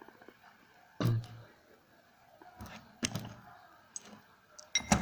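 Steel parts of a disassembled tractor gearbox being handled and set down: a heavy knock about a second in, then several lighter clicks, and ringing metal clinks near the end.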